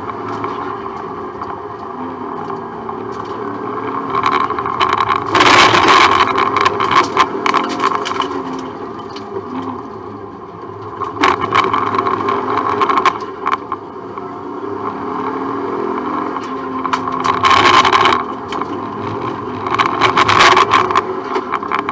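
Subaru Impreza rally car's engine heard from inside the cabin, revving up and down as it is driven hard through a stage. There are three louder, harsher roars of about a second each: one about a quarter of the way in and two near the end.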